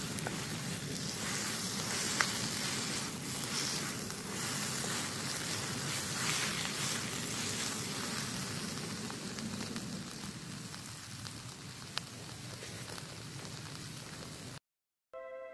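Onions, tomatoes and vegetables frying in a wok, sizzling steadily as a wooden spatula stirs them, with a couple of sharp ticks. Near the end the sound cuts off and soft ambient music begins.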